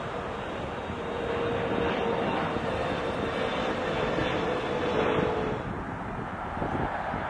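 Aircraft flying past: a steady rushing engine noise, with a held whine that comes in about a second in and fades after about five and a half seconds.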